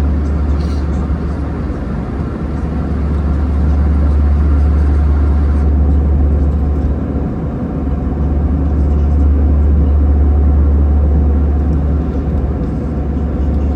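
Steady cabin drone inside an Airbus A320, from its CFM56 jet engines and the rushing air, with a strong low hum under it.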